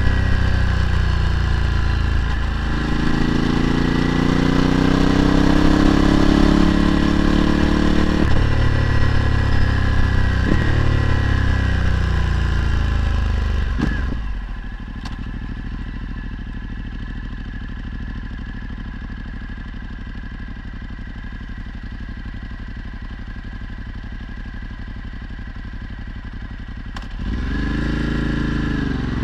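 Ducati Multistrada 1260's V-twin engine through a Termignoni exhaust, accelerating hard: the pitch climbs and drops back at each of several upshifts. About halfway it settles to a steady, lower, quieter note. Near the end it revs up again.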